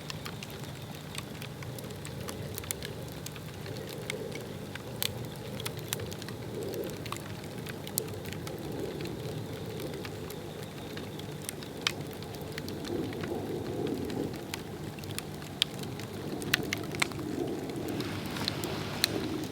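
A Swedish torch log fire crackling, with scattered sharp pops over a steady low rush of flame.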